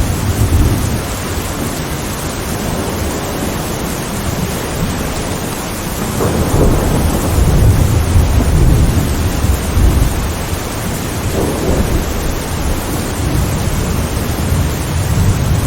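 Steady heavy rain with deep rolling thunder, the rumble swelling about six seconds in and again near the end.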